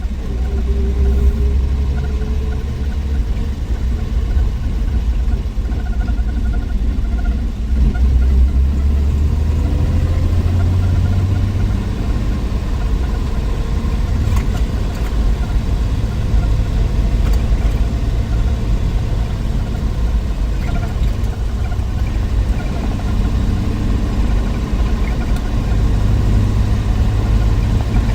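1963 Willys Wagon's 230 Tornado overhead-cam inline-six running with a steady low rumble, its note shifting up and down a few times.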